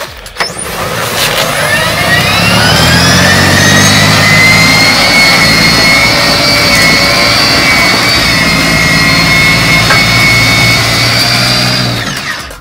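Snow blower engine speeding up about a second in, its pitch rising, then running steadily at high speed with a whine, and dying down near the end.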